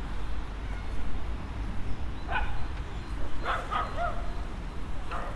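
A dog barking in short yips, four times in the latter half, over a steady low rumble.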